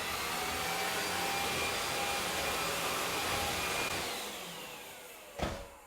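AEG CX7 cordless stick vacuum running at full suction with a steady whine, picking up spilled ground coffee. About four seconds in it is switched off and the whine falls away as the motor spins down, followed by a single knock near the end.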